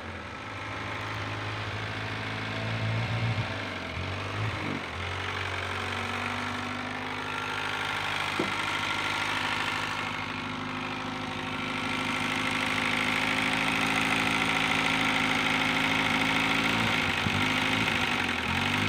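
Crosley car's small engine idling steadily, its speed dipping briefly and picking back up about four seconds in and again near the end as the carburetor is worked by hand. A single sharp click about eight seconds in.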